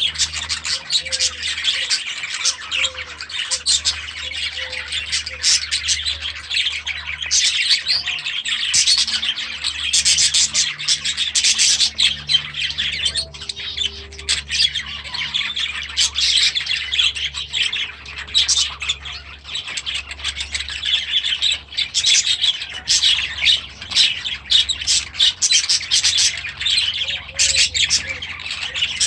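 A flock of budgerigars chattering and squawking together in an aviary, a dense continuous mass of short overlapping calls.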